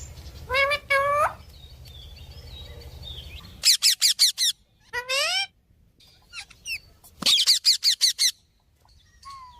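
Pineapple green-cheeked conures calling: two rising squawks within the first second and a half, then quick runs of sharp chirps and squeaks about four seconds in and again near the end. A low steady hum underneath cuts off abruptly about three and a half seconds in.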